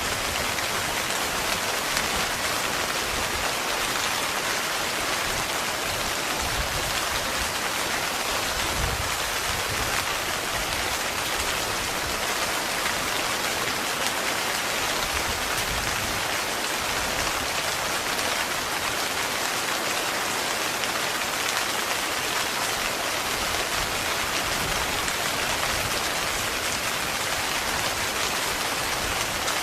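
Heavy rain falling steadily on a tent, a dense, even patter of drops.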